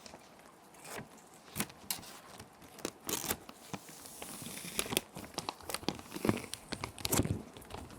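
Plastic sheet protectors crinkling and rustling in irregular bursts as paper sheets are slid into them and handled, over a faint steady hiss of rain.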